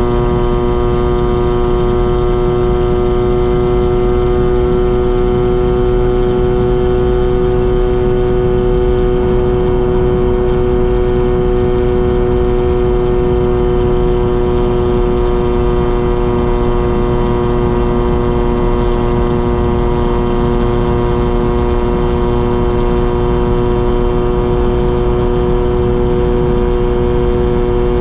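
Exhaust of a Mazda RX-7's two-rotor Wankel rotary engine while driving, held at an even engine speed so its note stays steady throughout.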